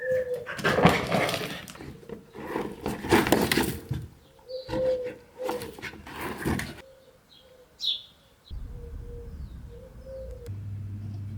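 Dove cooing in repeated low notes, with a short high bird chirp about eight seconds in. Four loud bursts of noise cover the cooing in the first seven seconds.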